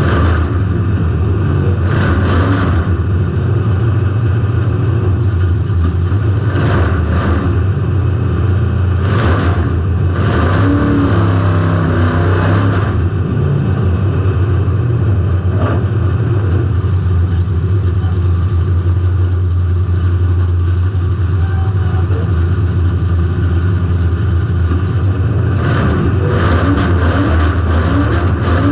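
Demolition derby car's engine running hard, picked up by a camera mounted on the car, with short bursts of noise a few seconds apart and a cluster of them near the end.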